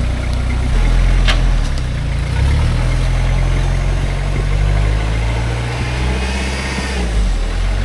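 Four-wheel-drive's turbo-diesel engine running at low revs while crawling, the revs shifting up and down a little. There is a single sharp click about a second in.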